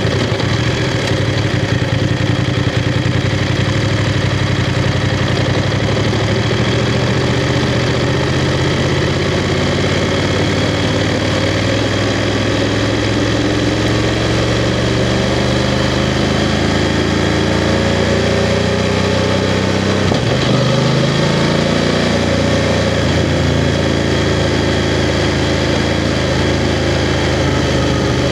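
BMW F 750 GS motorcycle's 853 cc parallel-twin engine running while ridden. The engine note holds fairly steady, then falls and rises again about twenty seconds in as the revs change.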